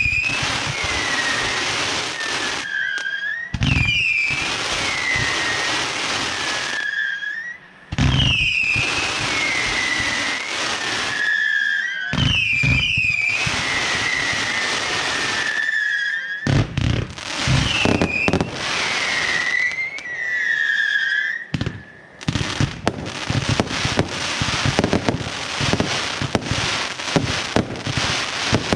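Consumer firework batteries firing a finale: repeated low launch thumps, each followed by a wash of bursts with falling whistles, about every four seconds. From about 22 seconds in, it turns into a dense crackling of many small reports.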